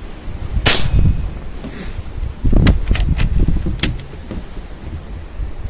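Air rifle being fired at a target: one sharp shot about two-thirds of a second in, then a quick run of four sharp cracks and clicks between about two and a half and four seconds, as the next shot and the action are worked. Strong wind buffets the microphone throughout as a low rumble.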